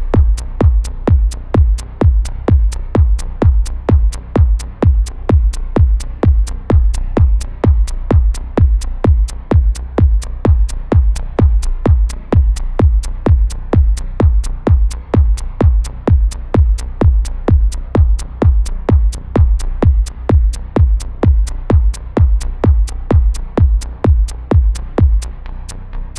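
Electronic progressive house track built from LMMS's built-in synths and samples: a steady four-on-the-floor kick drum at about two beats a second over a heavy bass line. The bass drops out near the end while the beat continues.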